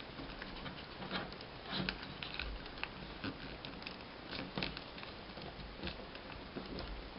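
Folded paper rustling and crackling as it is handled and lined up, with scattered light crackles and taps at uneven intervals.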